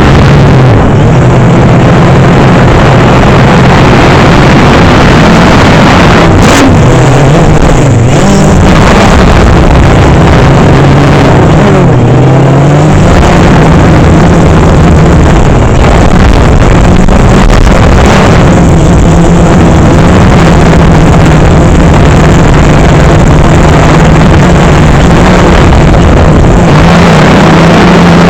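DJI Phantom 3 quadcopter's motors and propellers buzzing in flight, very loud, the hum wavering up and down in pitch as the drone manoeuvres.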